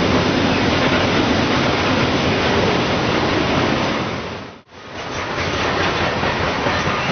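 Freight train rolling past close by, a loud steady rumble and rattle of cars on the rails. It fades out abruptly about halfway through and comes back just as loud.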